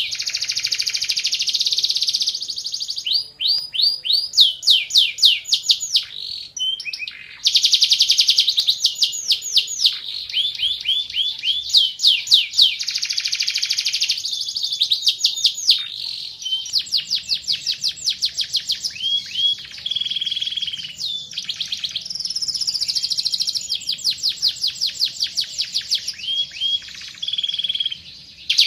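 Van Hesterling canary singing a long, nearly unbroken song of fast repeated notes and rolling trills, the phrases shifting in speed and pitch, with a few brief pauses between them.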